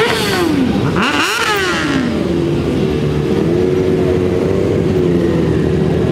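Sport motorcycle engines: one is revved up and back down twice in the first two seconds, then the bikes idle steadily together.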